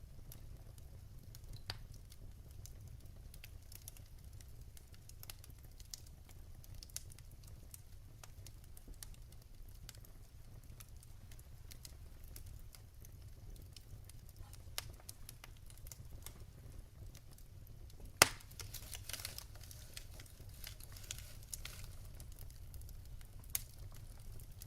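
Fire burning in a fireplace, crackling with scattered small pops over a low steady rumble. About eighteen seconds in comes one loud, sharp pop, followed by a few seconds of denser crackling.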